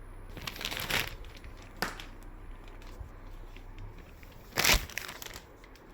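Packing wrap crinkling and rustling as a handheld vacuum cleaner is unwrapped and lifted out. There are several short rustles with small clicks, the loudest a little before the end.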